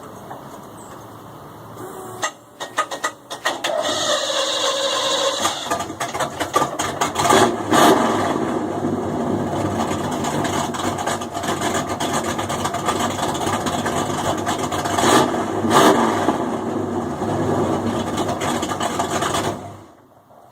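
1992 Camaro RS's GM crate 350 V8 running with no muffler: it fires up with a stutter about two seconds in, sweeps up in revs, then runs loud with a few sharp throttle blips. The sound cuts off suddenly just before the end.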